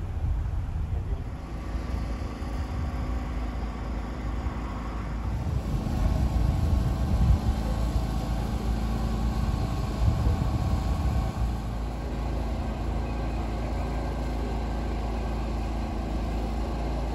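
A car engine running steadily, with a strong low rumble underneath.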